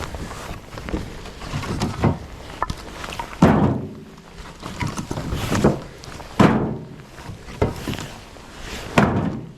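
Split firewood pieces knocking together as they are handled and stacked, a string of about seven dull thunks at irregular intervals.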